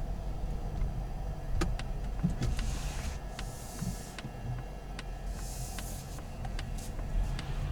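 Low rumble inside a Polestar 2's cabin, with a run of sharp clicks about two a second and two brief spells of hiss.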